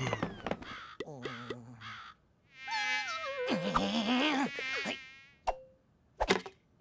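Cartoon sound effects: a few short squeaky pitched glides, then a loud insect-like buzz lasting about two and a half seconds with a wavering, falling pitch. A couple of sharp clicks come near the end.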